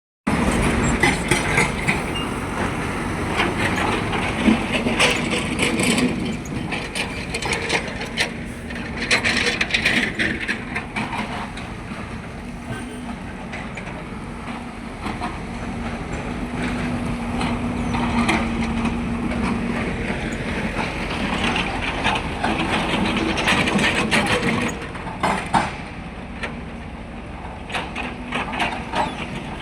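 Heavy road-construction machinery running: a steady engine drone with repeated clanking and scraping.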